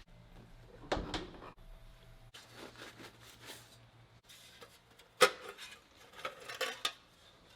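Faint scattered clicks and knocks of parts being handled, with a low hum in the first few seconds; a knock about a second in, a sharper click past the middle and a few small clicks near the end.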